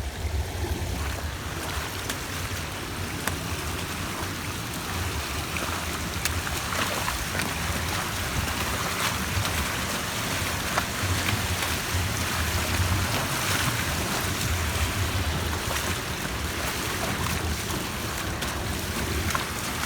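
Heavy storm runoff rushing steadily into an overwhelmed street catch basin, with wind buffeting the microphone.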